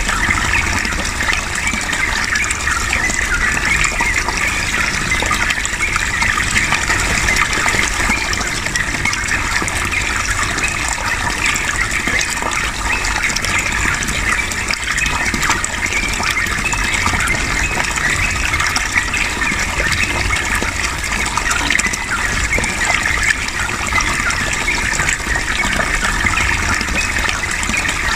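Water flowing and splashing in a steady, continuous rush.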